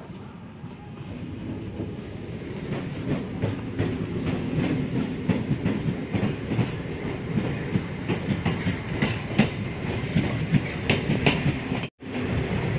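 MEMU electric local train rolling past close by, its wheels clattering over the rail joints. It grows louder over the first few seconds, then keeps up a steady clatter, which cuts out for an instant near the end.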